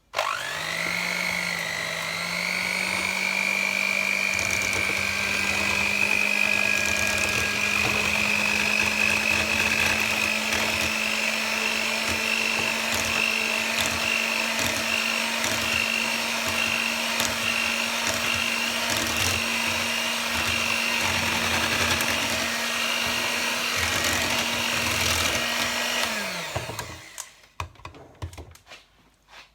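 Electric mixer switched on, spinning up with a rising whine, then running steadily for about 26 seconds as it beats condensed milk, lemon juice, cream and zest into the filling, before switching off and winding down.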